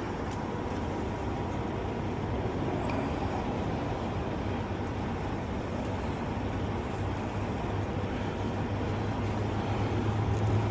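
Steady engine and road noise from trucks and traffic, with a low engine hum that grows louder near the end.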